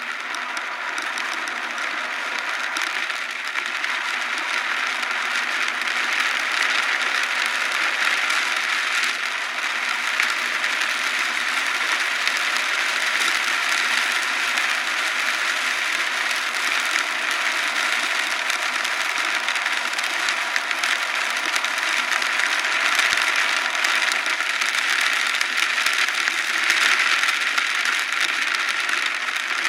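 Heavy rain beating on a car's roof and windshield: a dense, steady patter of drops, growing a little louder over the first few seconds.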